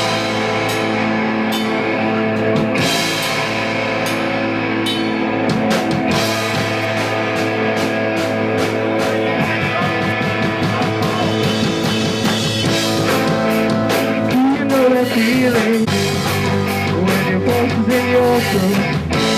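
A live punk rock band playing a song's instrumental opening, with electric guitars and a drum kit.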